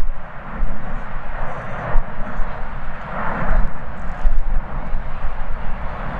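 A departing jet airliner's engines running at takeoff power, heard as a steady roar, with strong gusty wind buffeting the microphone in uneven low rumbles.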